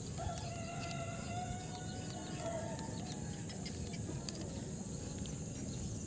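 A single long bird call of about two seconds, held on one pitch with a slight waver, over a steady high hiss.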